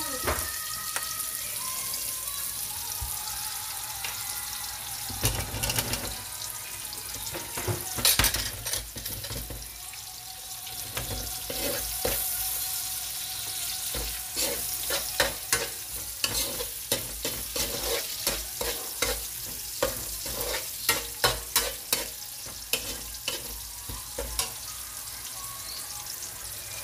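Chopped onions and garlic sizzling in hot oil in a metal wok, stirred with a metal spoon that scrapes and clicks against the pan. The scraping clicks come thick and fast in the second half.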